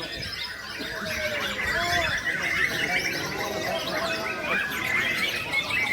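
Many caged songbirds singing over each other in a dense, continuous run of quick chirps and whistles, with spectators shouting underneath.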